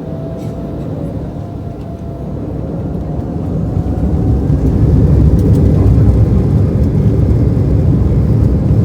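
Airbus A320 jet engines spooling up for the takeoff run: a low rumble that grows louder over the first few seconds and then holds steady, with a faint rising whine.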